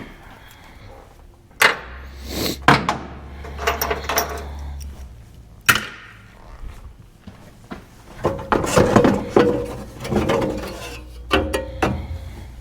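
Hand-tool and metal work noises in a pickup's engine bay: sharp clanks and knocks about 2, 3 and 6 seconds in, and a stretch of scraping and rattling about two-thirds of the way through.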